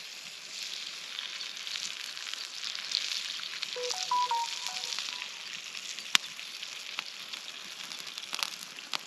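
Sausages sizzling in a frying pan, a steady high hiss. About four seconds in comes a short electronic chime of a few stepped tones, and a sharp click about six seconds in.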